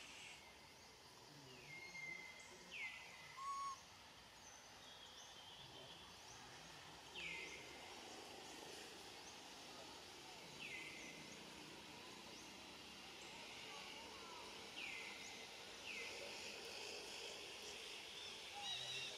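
Faint outdoor ambience with a bird calling every few seconds, each call a quick high note falling in pitch, about six in all.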